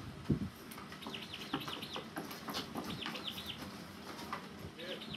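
A bird singing three short runs of quick, looping high chirps, each run a handful of notes. A thump about a third of a second in is the loudest sound.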